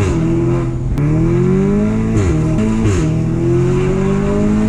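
Audi S3's four-cylinder turbo engine revving through a full Milltek sports exhaust. The pitch climbs over about two seconds and drops sharply, then comes a short blip, then a second long climb.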